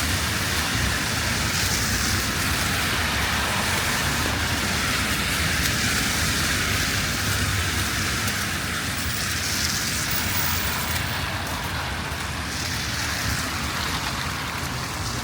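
Steady rain falling, with a low rumble of city traffic underneath.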